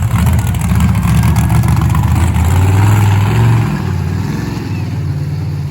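Monster truck's supercharged V8 revving hard, loud, with the engine note climbing about three seconds in, then dropping off sharply just before four seconds and settling to a lower, steadier note.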